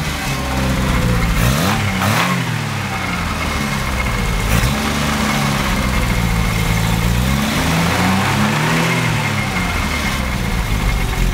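Renault Dauphine's rear-mounted four-cylinder engine idling and revved up and back down twice, briefly about two seconds in and more slowly near the end. It is running fairly evenly, not too badly.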